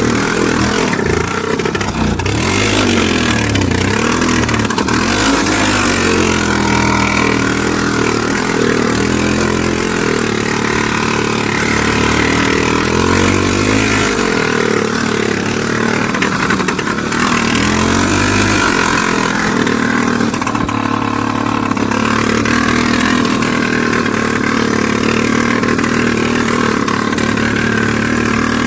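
IZh Planeta 3 motorcycle's single-cylinder two-stroke engine running while riding, its pitch rising and falling again and again as the throttle opens and closes.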